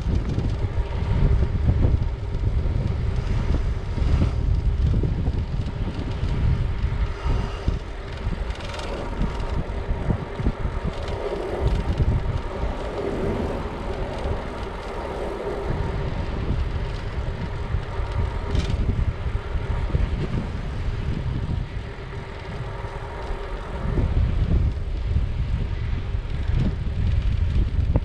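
Wind buffeting the microphone on a moving bicycle, a loud uneven rumble with some road noise, easing a little in the middle and picking up again near the end.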